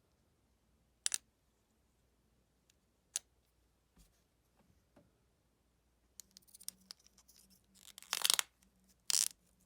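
Small hard clicks and taps from handling the coin and its plastic capsule, a sharp double click about a second in and another about three seconds in. Then from about six seconds a run of crinkling and rustling packaging, loudest in two bursts near the end.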